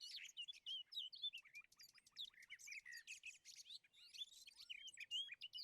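Faint songbirds chirping and twittering, many quick overlapping calls and short whistled slides.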